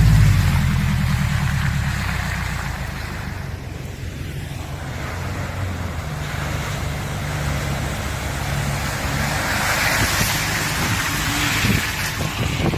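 Off-road vehicle's engine pulling under load on a rocky trail, loudest at the start and then settling to a steady drone. A hiss swells about ten seconds in.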